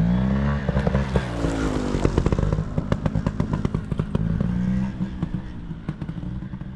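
Two-stroke trials motorcycle engine running, its revs falling and rising, with sharp clatter over it. It fades out near the end.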